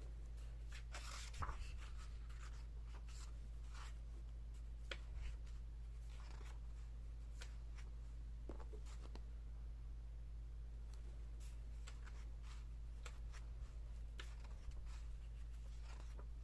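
Pages of a large hardcover picture book being turned and handled: scattered paper rustles and soft crackles, over a steady low electrical hum.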